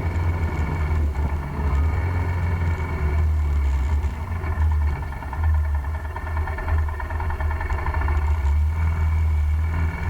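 Royal Enfield Himalayan's single-cylinder engine running steadily under way on the road.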